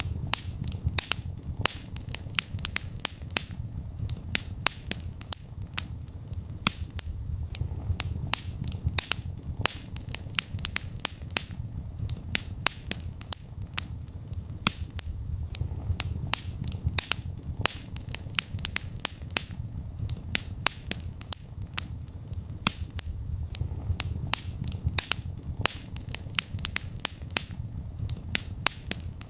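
Fireplace fire crackling: many sharp pops and snaps, several a second and uneven in loudness, over a low steady rumble of the flames.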